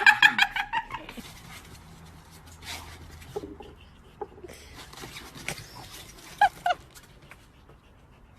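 An animal's calls: a loud pitched call at the very start, then scattered light clicks, and two short high calls close together about six and a half seconds in.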